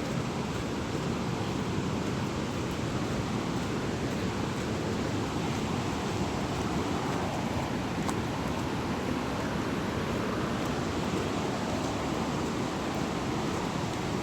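Steady rush of falling water from a waterfall, an even, unbroken wash of noise.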